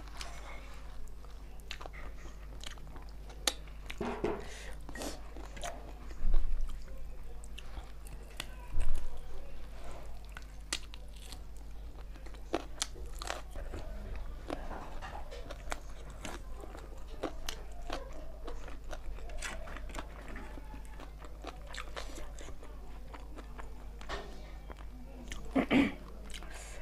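Close-miked chewing of spicy chicken on the bone: wet mouth clicks, lip smacks and biting, over a steady low hum. A heavier thump comes about six seconds in and another near nine.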